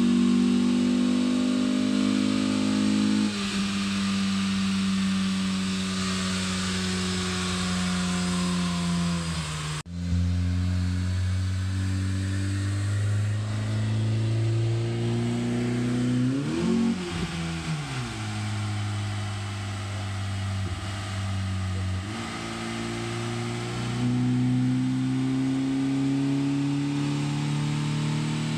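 Honda Civic's 1.8-litre R18 four-cylinder engine running on a chassis dyno. The engine note holds and then falls away for several seconds, breaks off abruptly, and holds low and steady. It rises and falls once in a quick rev, then climbs steadily near the end as the engine pulls under load.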